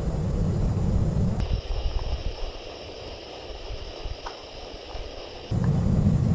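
Snowstorm wind buffeting the microphone as a heavy low rumble. It gives way suddenly to a quieter stretch with a few faint clicks for about four seconds, then returns just as abruptly.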